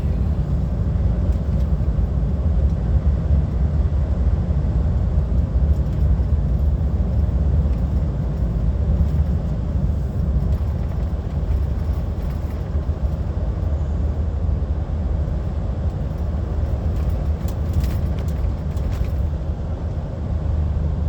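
Steady low rumble of an HGV's diesel engine and tyres on the road, heard inside the cab while the lorry drives along.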